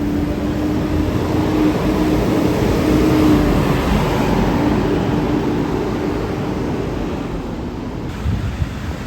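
Road traffic: a motor vehicle going past, its engine note and tyre noise swelling to a peak about three seconds in, then fading.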